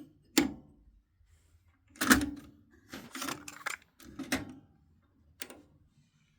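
Yamaha KX-493 cassette deck's mechanism and controls clicking and clunking: a couple of single clicks, then a run of several clunks about two to four and a half seconds in, and one last click near the end.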